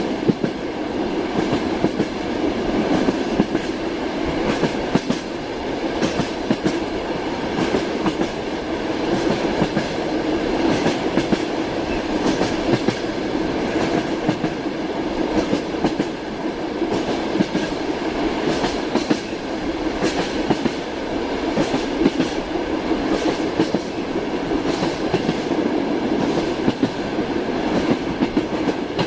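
Passenger train carriage running along the track: a steady rumble of wheels on rails, with scattered clicks and knocks from the rail joints.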